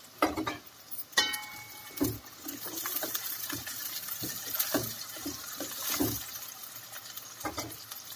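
Chopped onions sizzling in hot oil in a stainless steel pot while a metal spoon stirs them, knocking and scraping against the pot's side. One knock about a second in rings briefly.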